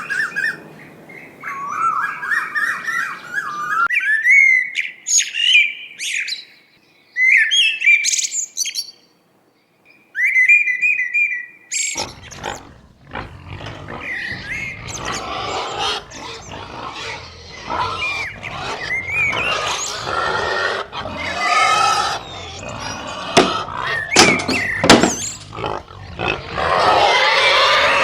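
Birds chirping and tweeting in short gliding calls, with a brief near-silent gap; from about twelve seconds in, a denser and louder jumble of animal noises takes over.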